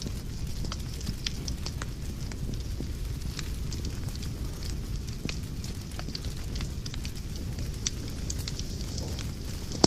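Wood fire burning in a fireplace: a steady low rumble of flames with irregular sharp crackles and pops, one louder pop near the end.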